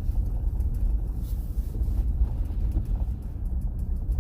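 Car driving along a road, a steady low rumble of engine and tyres.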